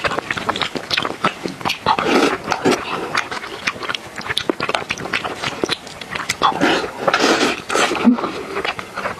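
Close-miked wet chewing and lip smacking of a mouthful of soupy rice, with many short clicks and a spoon stirring and scraping in the bowl.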